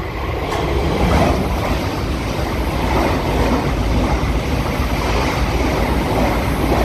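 Electric multiple-unit passenger train running through the station at speed: a steady, loud rush of wheels on rail and moving air with a deep rumble underneath.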